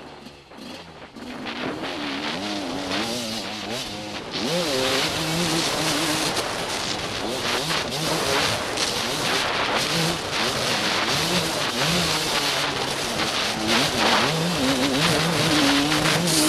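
TM Racing enduro motorcycle engine revving up and down as it is ridden hard over rough dirt. Quieter for about the first second, it gets much louder from about four seconds in.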